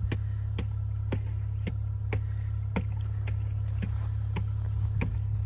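A vehicle engine running steadily: a low hum with a sharp, regular tick about twice a second.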